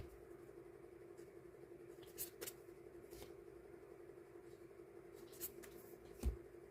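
Hands sorting die-cut stickers at a desk: a few short, light crinkles and taps a couple of seconds apart, the last with a soft thump, over a steady low hum.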